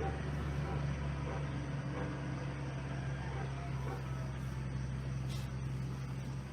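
Steady low mechanical hum under a faint even background hiss.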